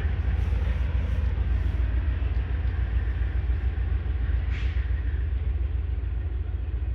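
Steady low rumble of a freight train moving away, the wheel clatter gone, with a brief faint squeal about four and a half seconds in.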